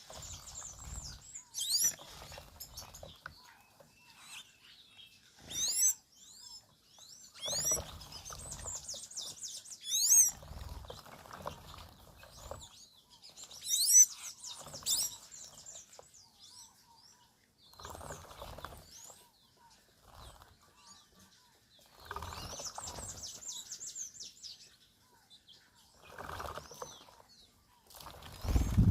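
Birds bathing: repeated flurries of wing-flapping a second or two long, mixed with many quick high chirps. The loudest flurry comes at the very end.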